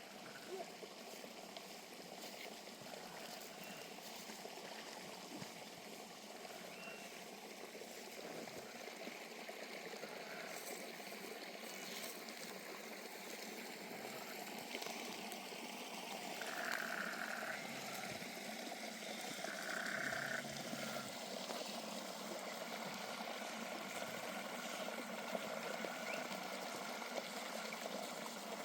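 River water flowing and trickling steadily, a little louder in the second half. Twice in the second half there is a brief, slightly higher sound over the flow.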